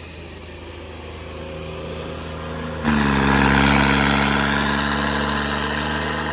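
Tractor diesel engine running, building slowly, then opened up sharply about three seconds in to a loud, steady high speed as the throttle is given, pulling hard in a tractor tug-of-war.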